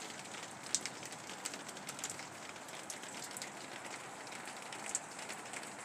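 Steady rain falling, with scattered sharp drips ticking on a surface.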